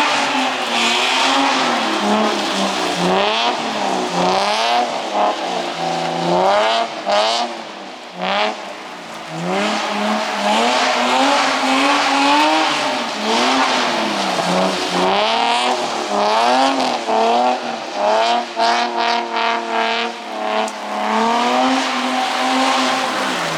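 Drift car's engine revving up and down over and over, its pitch climbing and dropping every second or two, with tyre noise on wet pavement as the car slides; near the end the revs fall away.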